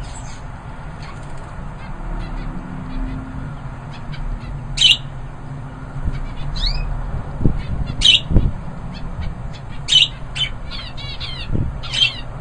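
Aviary birds calling: sharp squawking calls about every two seconds, with softer chirps in between and a few low thuds in the second half.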